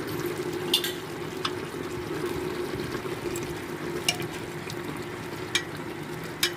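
Mutton and yogurt frying in oil in a steel pressure cooker: a steady sizzle under a steady hum, with a few light clinks of the slotted spoon against the pot as it is stirred.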